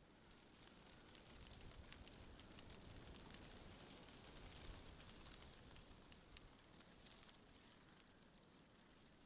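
Faint wind rustling through tree leaves, with many small crackling ticks. It swells through the middle and eases off near the end, over a faint low rumble.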